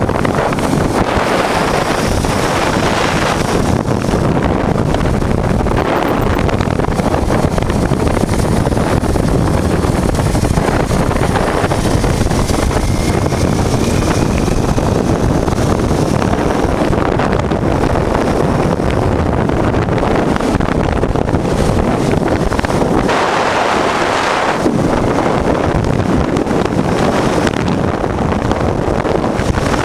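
Wind rushing over the microphone on a moving motorcycle, with the 1988 Honda Transalp's 600 cc V-twin engine running under it.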